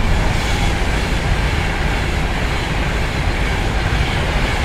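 Electric express train passing through the station at speed: a loud, steady rush of wheel and air noise that starts suddenly and holds.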